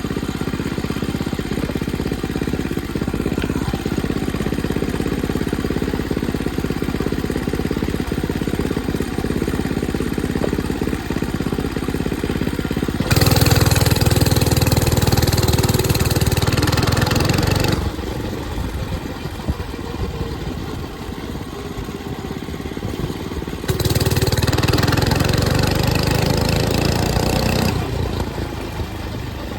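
A 105cc mini bike engine running steadily as it is ridden. It gets much louder for about four seconds twice, about thirteen seconds in and again about twenty-four seconds in.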